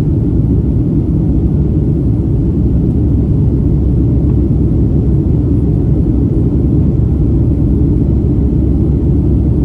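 Boeing 757-200 jet airliner giving a steady, deep rumble as it departs, with no rise or fall in pitch.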